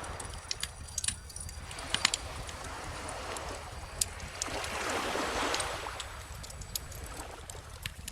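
Bonfire crackling with scattered sharp pops, the loudest about two seconds in, over calm ocean waves washing ashore; one wave swells up and fades about five seconds in.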